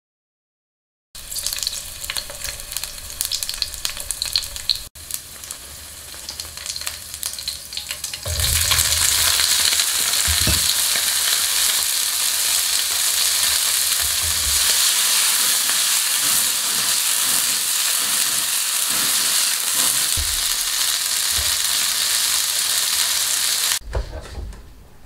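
Whole red chillies and garlic cloves frying in oil in a frying pan. After lighter crackling comes a loud, steady sizzle about a third of the way in, which cuts off near the end.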